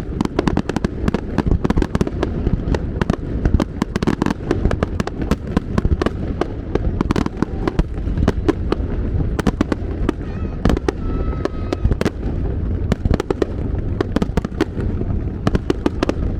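Fireworks show at its climax: a dense barrage of rapid sharp cracks and crackles over a continuous low rumble of shell bursts, without a break.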